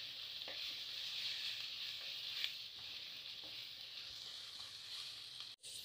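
Sliced onions and ginger-garlic paste sizzling steadily in hot mustard oil in an earthen pot while being stirred, with a few faint spatula scrapes.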